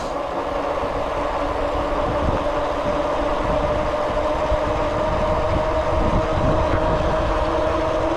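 A moving vehicle's steady droning hum over a low rumble, holding one even pitch throughout.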